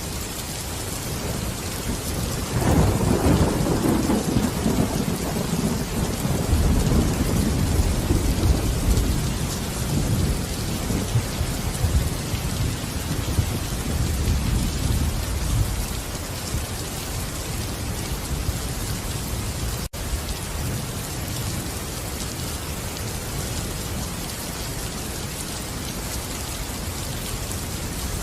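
Steady rain falling, with a long roll of thunder that swells about two and a half seconds in and rumbles away over the next dozen seconds. There is a split-second gap in the sound about twenty seconds in.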